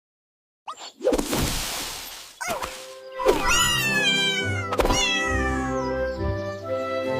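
After a moment of silence, a thud and a short rush of noise, then a cartoon cat's meows, two calls falling in pitch, over music with sustained notes.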